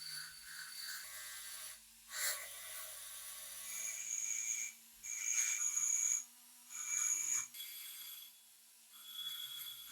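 Hand-worked rubbing strokes on a rifle part, about one stroke a second, several of them carrying a thin high ring.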